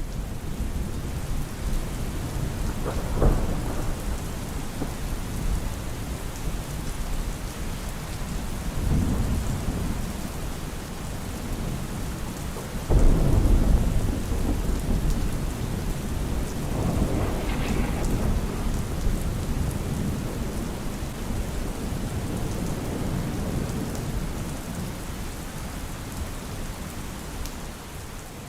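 Steady rain with several low rolls of thunder, the loudest breaking suddenly about halfway through.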